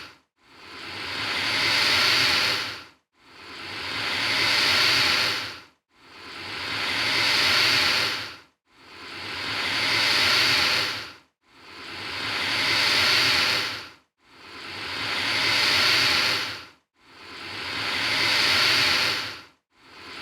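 Alligator hissing: a long breathy hiss that swells over about two and a half seconds and then cuts off, repeated about every 2.7 seconds, seven times with an eighth beginning near the end.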